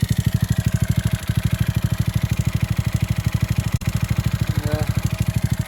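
Honda Grom's single-cylinder engine idling steadily with a loud, rapid ticking at every firing stroke. It persists after a valve adjustment; the owner had feared rod knock but hears it as more ticking than knocking.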